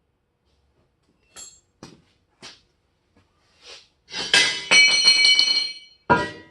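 Pieces of steel tubing being handled: a few light clicks, then a loud metallic clatter about four seconds in, with the metal ringing for a second or so, and a heavier knock near the end.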